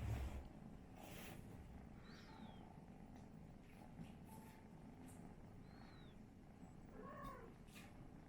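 Faint, steady low rumble of a kitten purring, with a soft thump at the start and a few light clicks and knocks.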